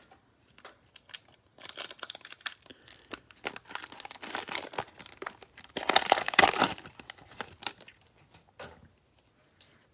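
Cellophane wrapper of a trading card pack crinkling and tearing as the pack is opened, loudest about six seconds in.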